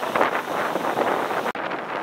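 Strong wind buffeting the microphone in uneven gusts by a rough sea. The sound drops out for an instant about one and a half seconds in.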